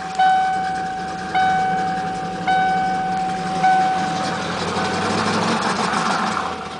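1994 Ford Mustang GT's 5.0 V8 idling unevenly, which the owner takes for a misfire, with an in-car warning chime repeating about once a second over it and fading out over the first five seconds.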